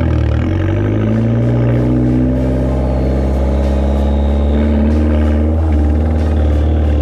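Fiat 500 Abarth's 1.4-litre turbocharged four-cylinder running through a catless downpipe and catless catback exhaust. Its loud, steady exhaust note holds with only small shifts in pitch.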